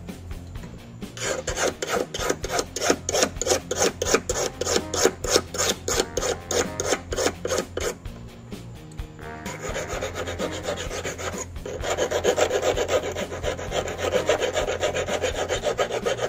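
Hand file rasping back and forth on a steel wire being shaped into a fishing hook. Even strokes come about three a second, then a short pause about eight seconds in, then faster, denser filing.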